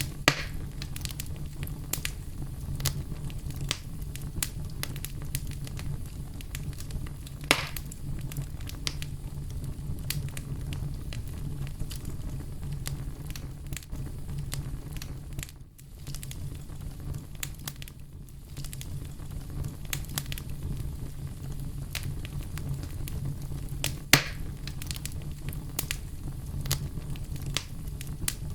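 Campfire crackling: burning wood with a steady low rumble of flames and a constant scatter of small pops, with three louder snaps.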